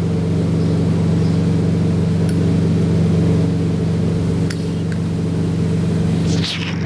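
Cummins ISX inline-six diesel in a Peterbilt 386 idling steadily, with a couple of faint ticks.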